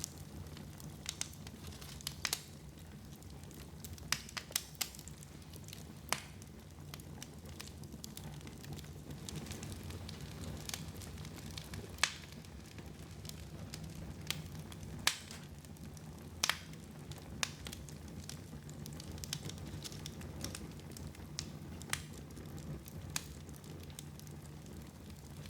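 Wood fire in a fireplace crackling, with irregular sharp pops, a few of them louder than the rest, over a low steady background.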